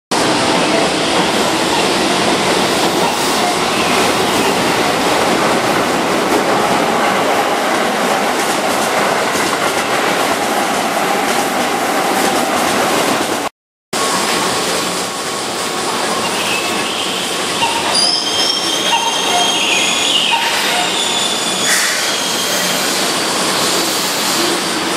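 Keihan 9000-series electric train running on curved track: steady wheel-on-rail noise with some wheel squeal. After a sudden cut it stands at a platform, with steady running-gear noise and a few short steady electronic tones from about 18 to 23 seconds in.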